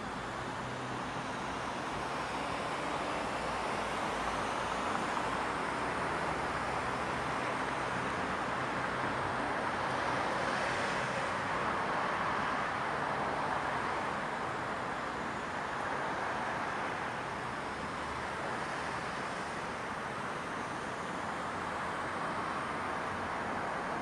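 Steady wash of distant road traffic, swelling for a few seconds around the middle as a vehicle passes closer, then easing back.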